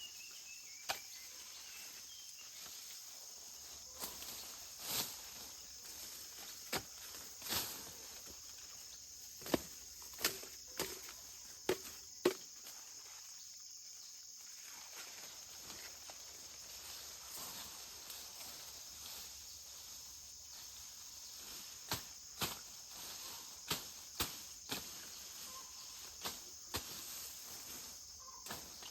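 Insects chirring steadily in a high, even drone, with scattered sharp clicks and knocks over it. The knocks come in a cluster about ten seconds in and again in the last third.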